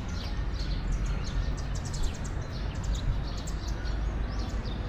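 Small birds chirping in many quick, short notes over a steady low rumble.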